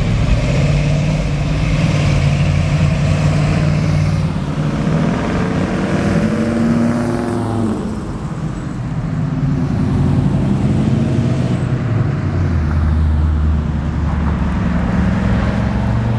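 Engines of cars driving slowly past one after another in a car cruise. One engine's pitch rises and falls about halfway through, and a deeper, lower rumble comes in about twelve seconds in.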